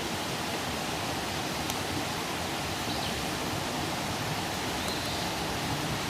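Campfire burning with a steady rushing hiss and a faint crackle about two seconds in.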